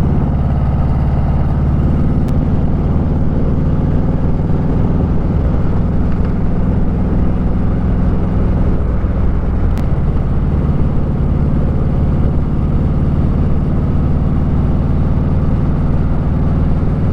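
Harley-Davidson V-twin motorcycle engine running steadily at cruising speed, its note holding even with no revving or gear changes.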